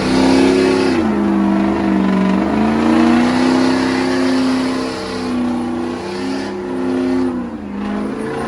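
Diesel truck engine revving hard and held at high revs, its pitch sagging and climbing again about a second in and once more near the end, with a steady hiss over it.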